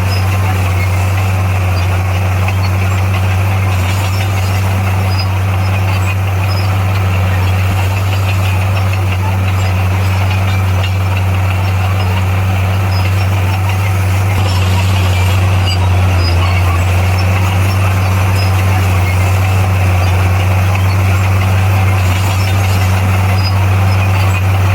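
Diesel engine of an SDLG motor grader running steadily with a low, even drone, growing slightly louder about halfway through.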